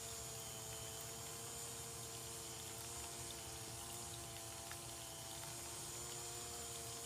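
Small battery-powered water fountain running: the steady hum of its little pump, with water trickling.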